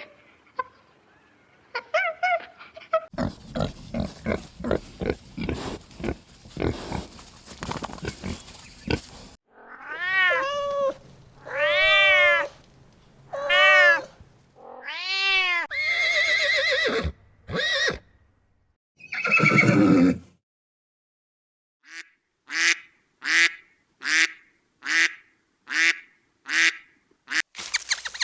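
A succession of different animal calls: a run of rapid rhythmic sounds, then several long rising-and-falling calls, then a series of short repeated calls about one to two a second near the end.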